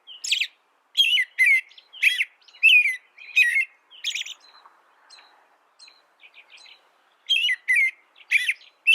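Small songbird calling: a run of short, sharp chirps, two or three a second, giving way to softer, quieter twittering in the middle before the loud chirps return near the end.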